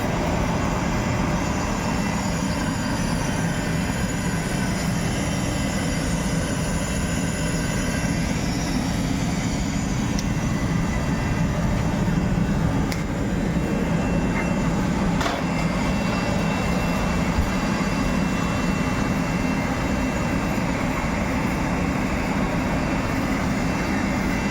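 LPG space heater running with a steady rushing noise and a strong low hum.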